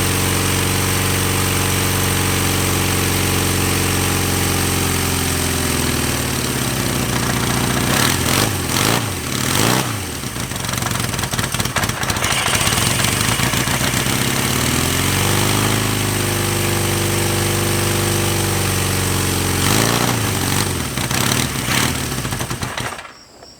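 1975 Honda CB550's air-cooled inline-four engine idling steadily, then revved up and down several times, with quick blips around the middle, before it is shut off near the end. It sounds funny, which the owner takes as a sign that the head gasket may be starting to go.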